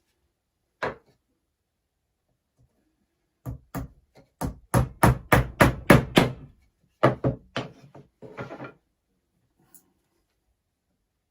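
Sharp knocks on wood as a wooden beehive frame is nailed together: one knock, then a fast run of about a dozen strikes at roughly three or four a second, a few more strikes, and a short scraping sound.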